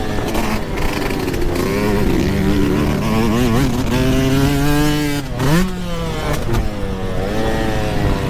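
Yamaha YZ125 single-cylinder two-stroke dirt bike engine running under load while ridden, its pitch rising and falling with the throttle. About five seconds in it drops off sharply and then revs straight back up.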